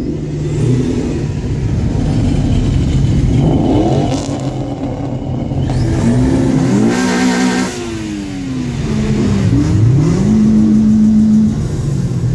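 Several cars pulling away with engines revving and accelerating over a steady low rumble. In the second half one engine's pitch climbs and holds, drops, then climbs and holds again, and a brief loud rush of exhaust passes partway through.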